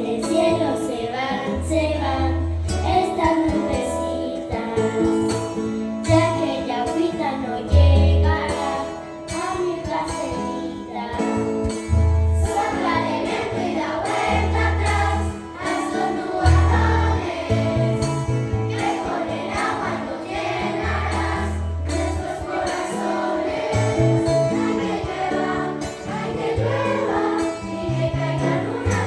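A choir singing a choral piece, with low sustained bass notes and light percussive ticks beneath the voices.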